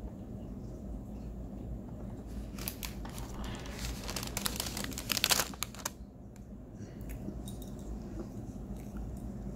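Cornstarch chunks being crunched and chewed close to the microphone: a crackly, crinkling crunch that starts a couple of seconds in and lasts about three seconds, loudest near its end.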